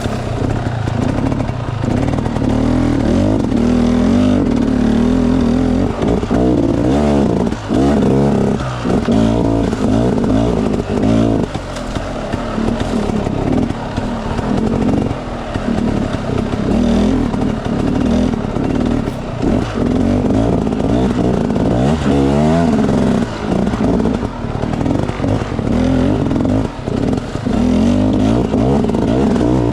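Enduro dirt bike engine running under load, revving up and down again and again as the throttle is worked.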